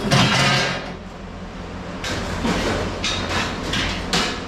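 Scrap metal being dropped onto the ground: a loud clattering crash at the start, then a run of shorter metal clanks about two to four seconds in, over a steady low hum.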